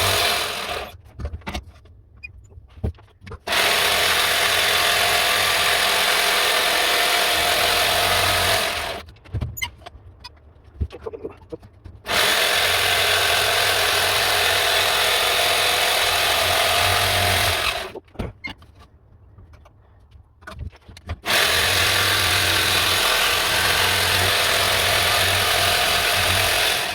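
Handheld electric power tool working wood, running in spells of about five to six seconds and stopping briefly between them.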